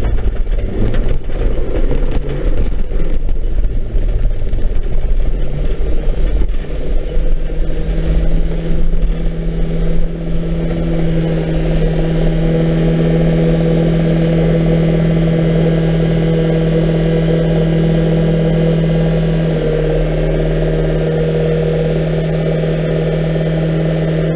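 Banger racing car's engine heard from inside its stripped cabin, first working over the rough dirt track with rattling and bumping, then from about ten seconds in settling into one steady, even note as the car slows and sits.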